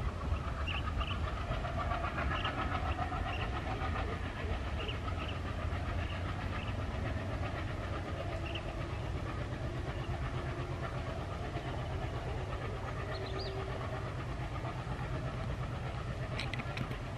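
Passenger train hauled by an ALCO WDM-3A diesel pulling away into the distance: a steady low rumble, with a few short high chirps over it.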